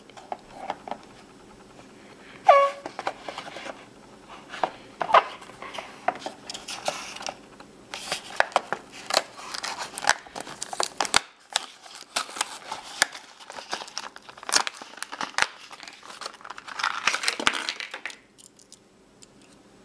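Toy packaging being torn open and crinkled by hand, with irregular tearing, crackling and clicks and a brief squeak about two seconds in.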